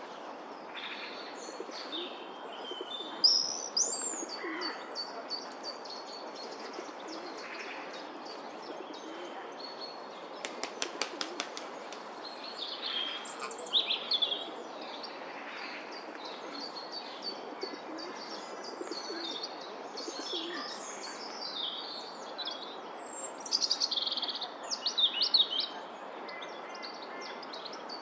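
Small birds chirping and twittering in scattered bursts over a steady background hiss, with a run of quick fluttering clicks partway through.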